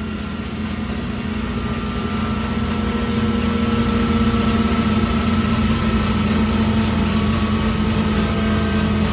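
A car engine running at a steady pitch, growing louder over the first few seconds and then holding.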